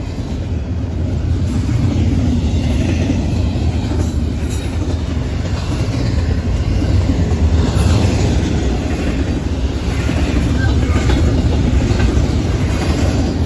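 Norfolk Southern double-stack freight train rolling past: a steady low rumble of the cars, with the wheels clacking now and then over rail joints.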